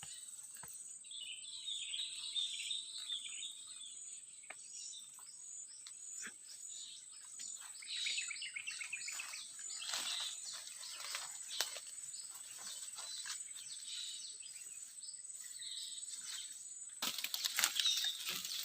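Steady high-pitched insect drone with a regular ticking pulse, under scattered bird chirps in the scrub. Near the end comes a louder rustling of brush, as someone moves through the undergrowth.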